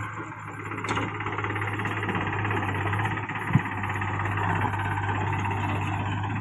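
Tractor diesel engine running steadily with a fast, even beat, and one short sharp click about halfway through.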